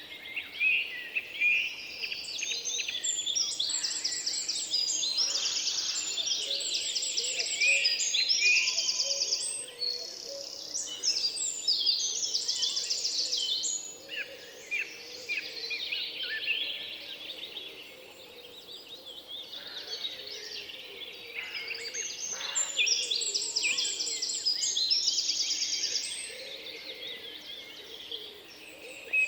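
Several songbirds singing at once, a dense chorus of rapid trills and chirps that thins out for a few seconds midway, then picks up again.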